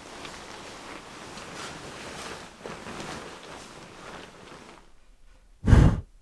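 Rustling and faint knocking handling noises, fading out, then a single loud, short thump near the end.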